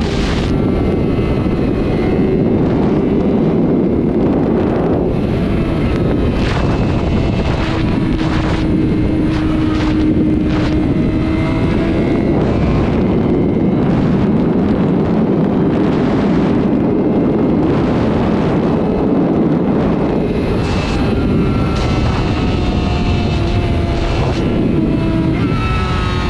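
Sport motorcycle engine running at speed under heavy wind noise on the microphone. The engine note holds steady with small rises and dips.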